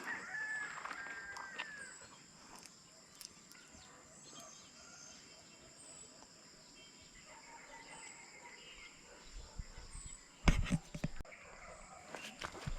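Outdoor ambience: a steady high insect drone with faint bird chirps repeating now and then, and a short whistled call in the first second or two. About two thirds of the way through, a brief low thump like a gust or a knock on the microphone.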